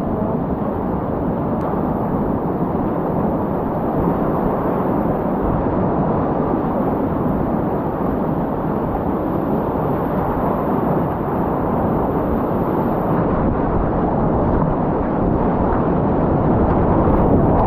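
Loud, steady rush of whitewater rapids on a steep Class 4 river.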